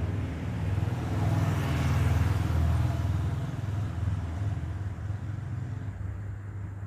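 A road vehicle passing by over a steady low traffic rumble: the noise swells to a peak about two seconds in, then fades away.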